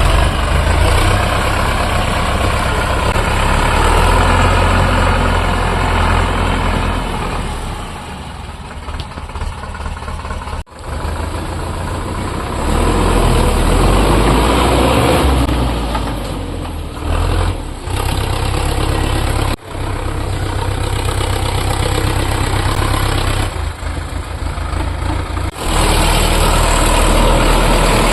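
Sonalika DI 750 tractor's diesel engine running, with sudden breaks about 11, 20 and 26 seconds in where the sound cuts and resumes at a different level.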